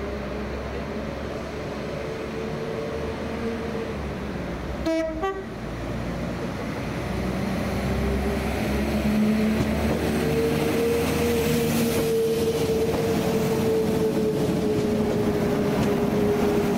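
A train approaching and passing, its running sound a steady hum with a tone that grows louder through the clip. A brief horn toot comes about five seconds in.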